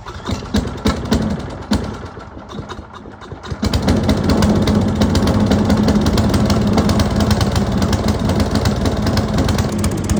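Wood chipper's small gas engine being started on a newly fitted replacement carburetor: a few irregular cranking bursts, then it catches about three and a half seconds in and runs steadily and loud.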